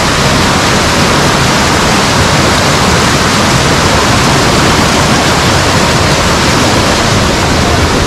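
Loud, steady roar of a large waterfall heard up close, its water crashing down without let-up.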